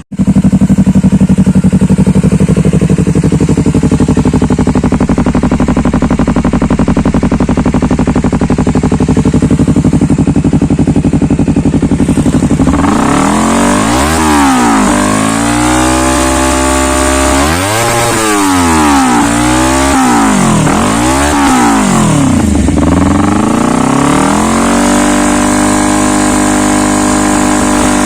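Honda CBR250RRR's parallel-twin engine through a Triton GT-5 stainless steel aftermarket exhaust. It idles steadily, then from about halfway it is blipped in a quick run of revs, five or six rising and falling in a row. It drops back toward idle and gives one more rev near the end.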